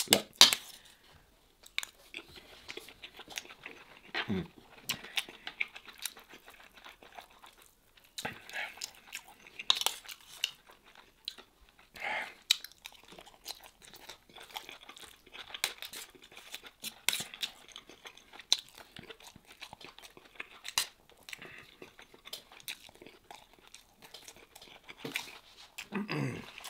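Close-miked eating sounds of a man chewing lamb and rice: wet chewing and mouth smacks with many short, irregular clicks.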